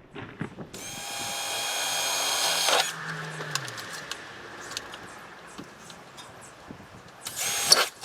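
Power drill running at speed for about two seconds, then winding down with a falling hum. Light clicks and knocks follow, and a second short burst of the drill comes near the end.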